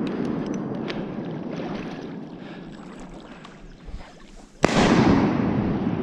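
A single shotgun shot about three-quarters of the way through, sudden and loud, with a lingering noisy tail after it.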